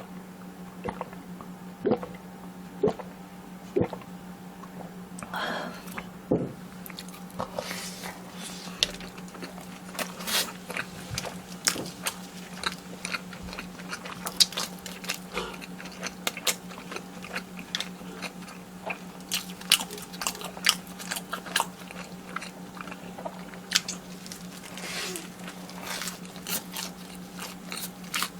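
Close-miked eating: repeated crunchy bites and chewing, with many sharp crackles and a few louder bites in the first few seconds. A steady low hum runs underneath.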